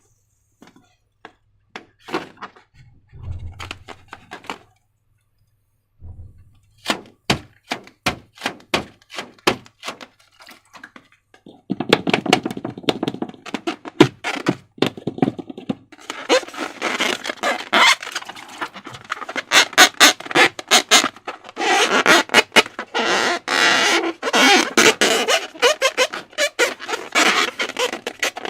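Slime being squeezed and worked by hand: scattered clicks, then a run of sharp snaps about two a second, then dense crackling from about twelve seconds in, loudest in the second half.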